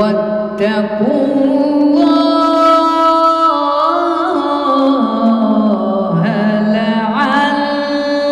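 A woman reciting the Quran in slow, melodic tajwid style, holding long, ornamented sung notes that step and waver in pitch.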